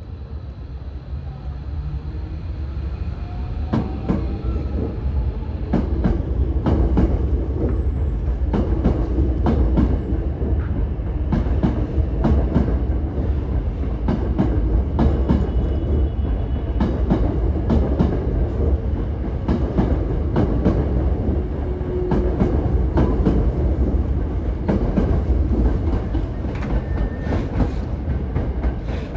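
Hankyu electric commuter train running on the tracks: a steady low rumble that grows louder over the first few seconds, with many sharp wheel clacks over rail joints and points.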